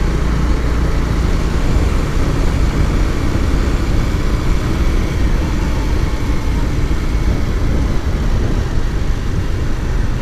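Steady road and wind noise from a moving motorcycle, heard on the rider's microphone as an even rush with a heavy low rumble.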